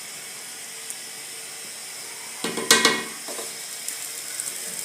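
Chicken frying in hot oil in a pot, a steady sizzling hiss, with one short, louder noise from the pot about two and a half seconds in.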